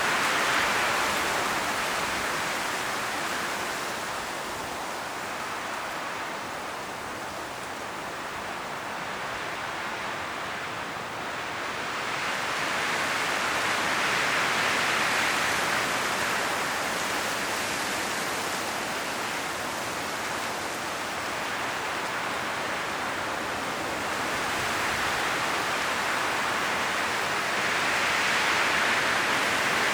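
Strong wind blowing through forest trees, rustling the autumn leaves in a steady rush that swells and eases in slow gusts, with a lull about a third of the way in and stronger gusts in the middle and near the end.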